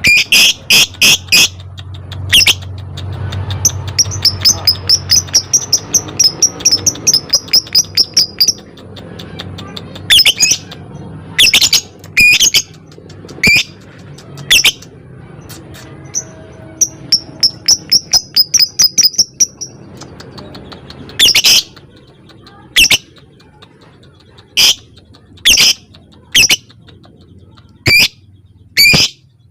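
Lovebird calling: loud, shrill, sharp chirps, with runs of rapid short calls at about three to four a second, the ticking call keepers call 'ngetik'.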